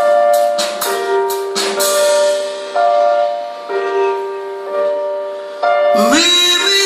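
Live rock band music: slow piano chords held and fading, changing about once a second, with a note sliding upward near the end.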